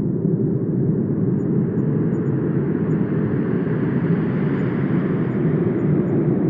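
Wind blowing steadily with a low rumbling rush; a gust swells its hiss higher through the middle and eases near the end.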